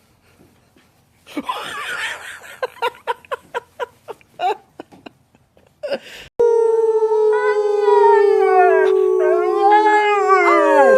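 Dog howling in long held notes that slide up and down in pitch, starting about halfway through, after a run of short, sharp sounds.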